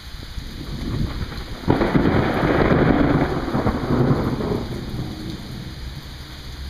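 Thunder over steady rain: a low rumble builds, then a sudden sharp crack comes about a second and a half in, rolls on loudly for about three seconds and fades away.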